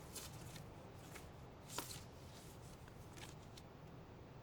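Faint handling sounds, a few soft clicks and light rustles over a low room hum.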